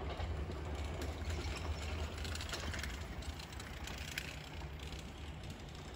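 Nankai Rapi:t electric train running away into the distance, a low rumble slowly fading, with a scatter of faint rail clicks about halfway through.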